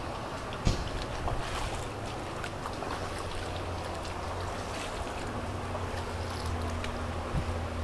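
Floodwater from a broken water main flowing through a street, with wind on the microphone and scattered small splashes. A low engine hum runs underneath and grows steadier about five seconds in, and there is one short knock just under a second in.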